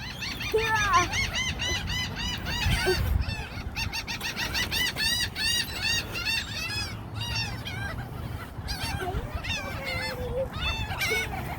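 A flock of birds calling around thrown food, many short high calls repeated in quick succession and overlapping.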